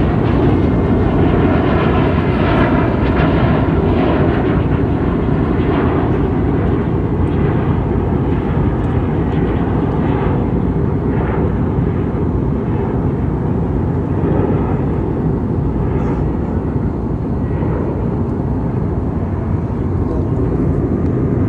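Passenger airliner cabin noise in flight: a steady, loud low rush of the jet engines and airflow heard from inside the cabin.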